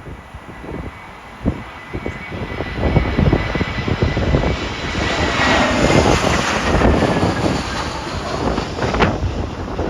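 Jet airliner on short final passing low overhead: its engines give a high whine that slowly drops in pitch as a rush of engine noise swells to a peak around the middle and then eases. Gusty wind buffets the microphone throughout.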